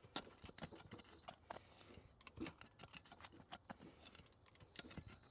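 Faint, irregular scrapes and clicks of a digging tool working dry soil in a post hole.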